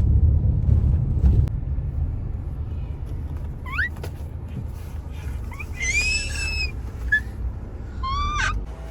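Low vehicle rumble that fades away after about a second and a half, then three short, high-pitched animal calls: one rising call, one longer arched call, and one falling call near the end.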